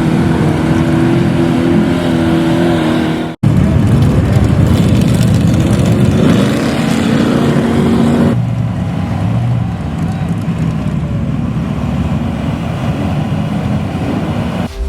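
Big off-road truck engines running and revving loudly, in three clips cut together: one about three and a half seconds in and one a little past halfway.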